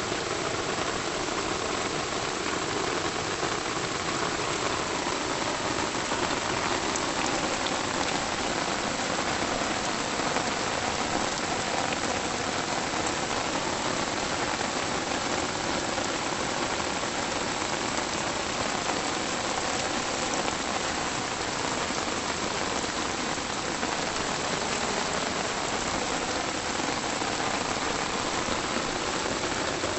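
Steady rain falling: an even hiss that stays the same throughout.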